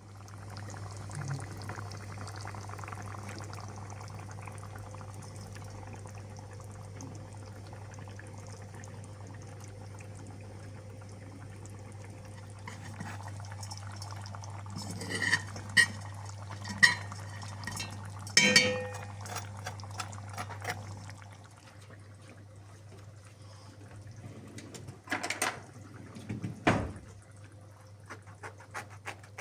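Kitchen sounds while cooking: liquid pouring with a steady hiss and low hum that stop about 21 seconds in, and dishes and utensils clinking sharply a few times in the second half.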